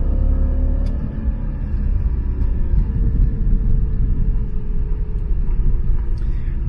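BMW 330i ZHP's M54 B30 straight-six accelerating hard, a loud deep rumble heard from inside the cabin, its pitch climbing in the first second and then holding steady.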